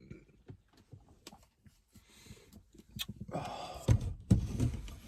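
Handling noises inside a car: scattered clicks and rustling, then a louder scuffle with a few dull thumps a little over halfway through.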